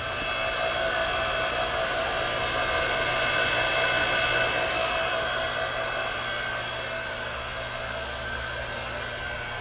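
The 220 V electric motor and hydraulic pump of an 8-ton horizontal hydraulic log splitter running steadily with no load, a constant hum with a steady whine.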